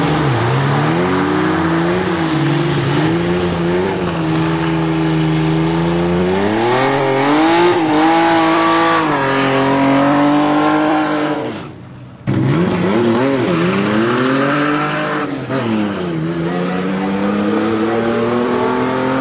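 Drag-racing car engines revving hard at the start line, the revs climbing and falling again and again, with tyre noise. After a brief drop-out about twelve seconds in, the revs build again and climb steadily as the cars accelerate down the quarter-mile strip.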